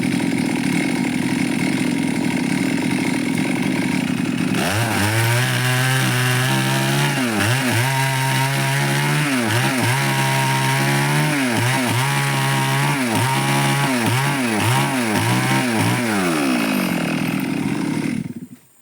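Stihl chainsaw running steadily, then from about four seconds in cutting wood, its engine note dipping and recovering about once a second as it bogs under load. The sound cuts off abruptly near the end.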